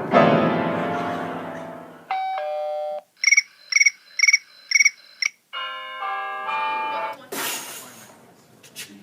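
Electronic chime sounds: a loud chord that fades over about two seconds, a stepped ding-dong chime, a bright ringing tone pulsed five times, then the stepped chimes again. Near the end there is a short burst of noise.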